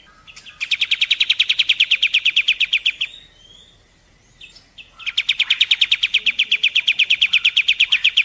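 Kapas tembak bird singing its rapid 'shooting' trill: two long bursts of fast, evenly repeated high notes, about a dozen a second, each lasting roughly two and a half seconds, with a short pause and a few faint chirps between them.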